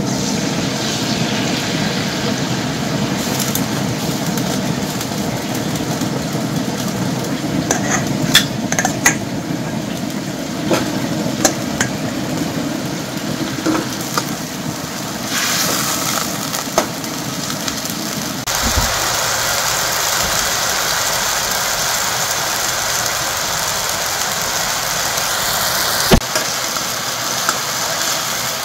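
Steady cooking noise at the stove, with several sharp clinks of a utensil against cookware. About 18 seconds in, it changes to a brighter, even sizzle, with one knock near the end.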